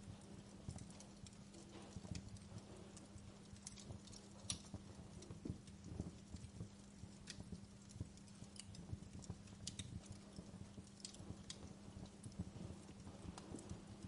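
Wood fire crackling in a fireplace: irregular small snaps and pops, a few sharper, over a faint steady low hum.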